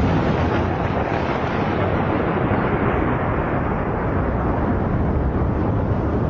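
Thunder rolling, a loud, deep, steady rumble that goes on without letup.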